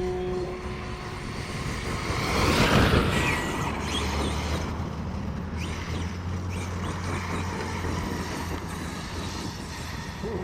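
Arrma Kraton 8S 1/5-scale electric RC truck driving over rough ground, its tyres and drivetrain making a rough rushing noise that swells to its loudest about three seconds in, then settles to a steadier run with a low hum.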